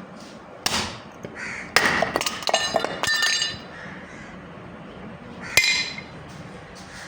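Metal striking metal: a knock, then a rapid run of clanks and clinks, then one more sharp clang near the end, each ringing briefly.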